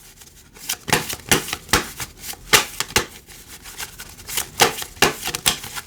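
A tarot deck being shuffled and handled by hand: an irregular run of sharp card snaps and flicks.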